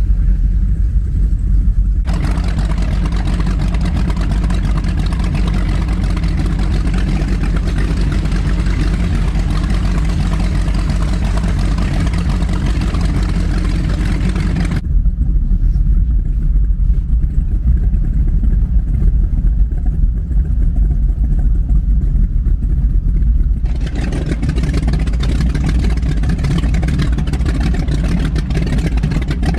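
Twin V8 engines of an Avanti 33 power boat running steadily under way, a deep continuous drone. A loud rushing noise rides over it, stopping for several seconds in the middle and returning near the end.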